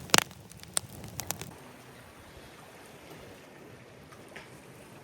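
Several sharp clicks and knocks in the first second and a half, the loudest right at the start, then a soft, steady wash of seawater.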